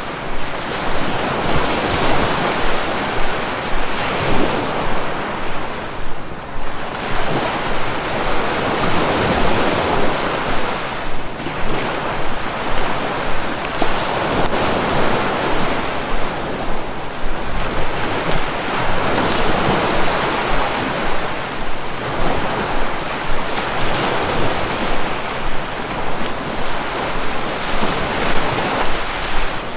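Sea waves breaking and washing on the shore, a continuous rush of surf that swells and eases about every five seconds.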